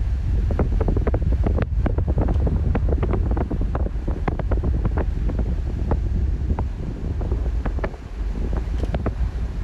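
Wind buffeting the microphone: a steady low rumble with many short crackles and ticks.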